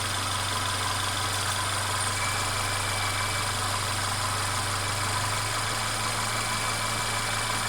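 Mercedes-Benz CLA 250's turbocharged four-cylinder engine idling steadily, with the constant rattle that the owner reports hearing from it throughout the recording.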